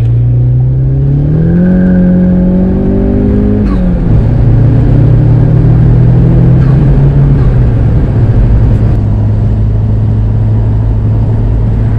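Car engine idling, then revved: the revs climb about a second and a half in and hold, drop back near four seconds to a fast idle, and settle to a steady idle near eight seconds.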